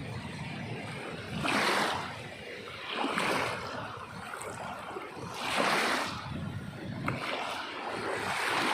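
Sea waves washing in, with four rising and falling surges of rushing surf about every two to three seconds over a steady wash.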